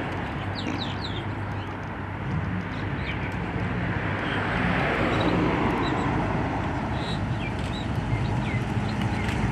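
A vehicle engine running steadily, growing louder around the middle, with birds chirping.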